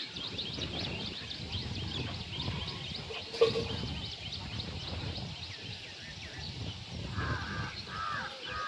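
A dawn chorus of many small birds chirping rapidly in high notes over a steady low background rumble. A single short knock comes about three and a half seconds in, and near the end a larger bird calls several times in lower, rounder notes.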